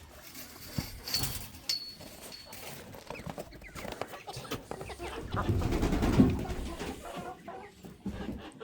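Chickens clucking in a coop, with scattered knocks and a louder stretch of rustling and handling noise about five to seven seconds in.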